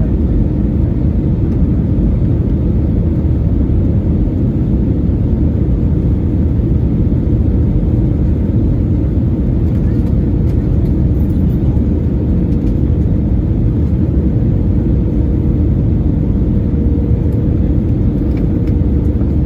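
Airbus A320neo: a loud, steady low rumble of engines and airflow, with a thin steady hum riding on it.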